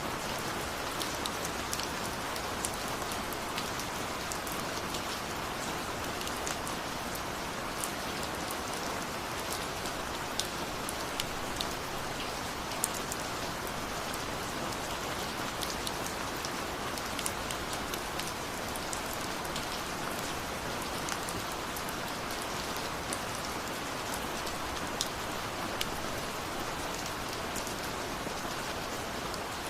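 Steady rain falling, an even hiss with scattered individual drops ticking sharply on nearby surfaces.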